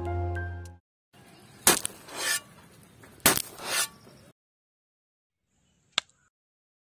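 A small tin scoop clinks twice against a terracotta pot, each clink followed by a soft scrape as it digs and tips dry cement powder. A single small click comes near the end.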